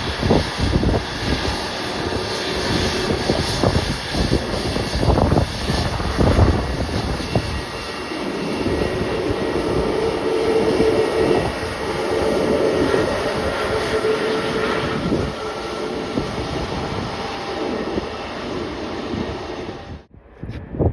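Jet airliner's engines running loud as it moves along the runway: a steady roar with a held droning tone. Wind buffets the microphone in the first few seconds, and the sound cuts off suddenly near the end.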